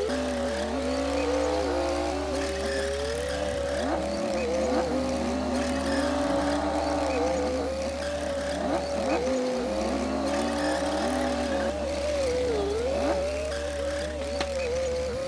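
Komatsu D60P bulldozer working, its diesel engine and drive giving a steady whine that wavers and dips in pitch as the load changes.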